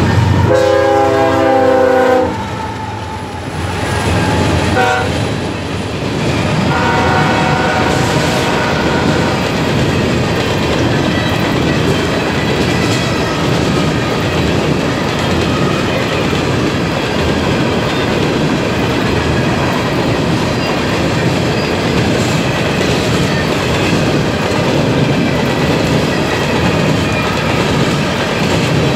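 Freight train passing close by: the diesel locomotive's horn blows about a second in and holds for two seconds. A short toot follows near five seconds and a fainter blast about seven seconds in. Then comes the steady rumble and clatter of coal cars' wheels rolling over the rails.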